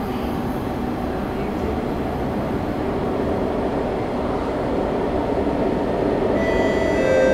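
SMRT C151 train approaching the platform through the tunnel: a steady rumble that slowly grows louder, with a high whine of several tones coming in about six seconds in as the train nears.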